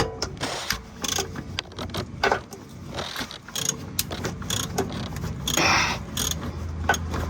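Metal clicks and knocks of an oil filter wrench being fitted and worked against a stuck oil filter, with a louder scraping rasp about five and a half seconds in.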